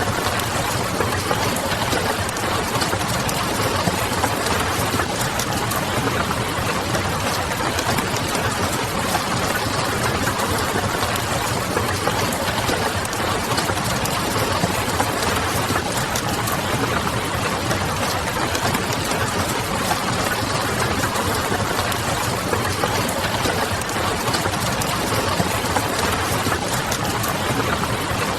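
Wood fire crackling with many small fine snaps, over a steady hiss of rain and a low steady hum underneath.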